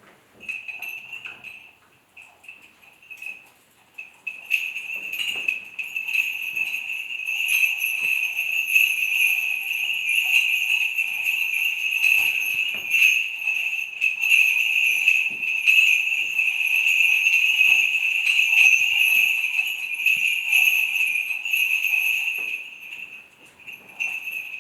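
Small bells on a swinging censer jingling, with the clink of its chains. It is heard briefly near the start, then continuously from about four seconds in until shortly before the end.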